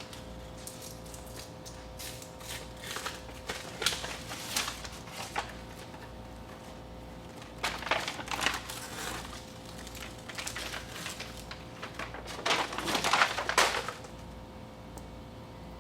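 Sheet of sound-deadening matting being handled, giving irregular crinkling and crunching in three spells.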